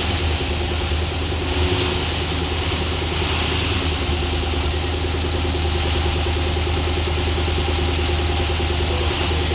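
Tata truck's diesel engine running steadily, with a constant low hum.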